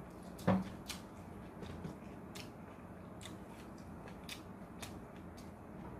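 A person chewing crunchy food close to the microphone, with irregular crisp crunching clicks. There is one brief louder mouth sound about half a second in.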